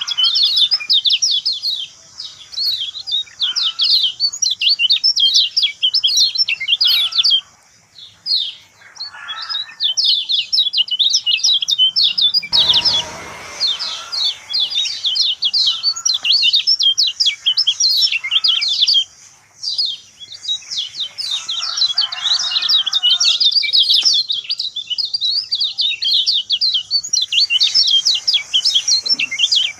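Kecial kuning white-eye singing a fast, continuous stream of high, thin chirps and trills with hardly a break. About 13 seconds in there is a short rustling burst.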